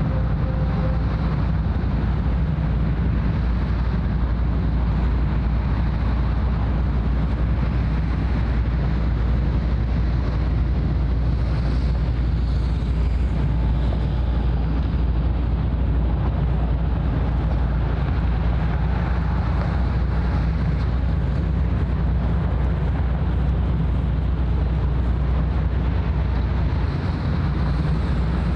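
Steady low rumble of a large ship's engines under way, with wind on the microphone.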